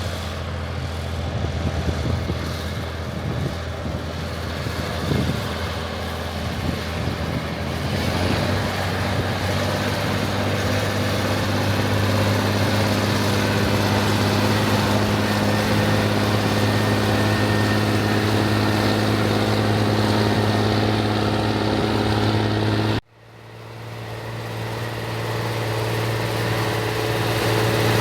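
Rába 250 tractor's diesel engine running, uneven for the first several seconds, then settling into a steady, slightly louder note. About five seconds before the end the sound drops out for an instant and swells back.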